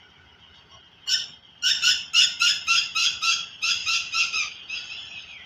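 A bird calling close by: a rapid run of short, repeated calls, about four a second, starting about a second in and growing fainter near the end.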